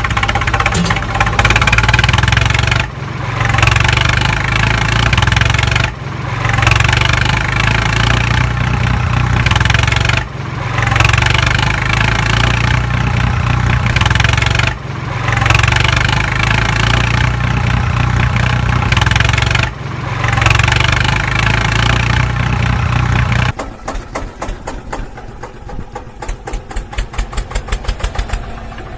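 Tractor engine running loud and steady in stretches of a few seconds, each broken off by a short dip. About three-quarters of the way in it gives way to a quieter run of rapid ticks that speeds up.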